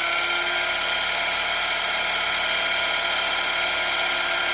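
Brushed electric motors of a Wltoys V915-A SA 315B Lama RC helicopter spinning its rotors at a steady speed just after being unlocked: a steady high-pitched electric whine over a whirring hiss.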